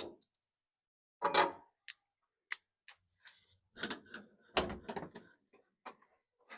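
Scattered clicks, knocks and clatter of handling at a vertical offset smoker as chicken thighs and a chuck roast are pulled off, with a denser run of clatter about four seconds in.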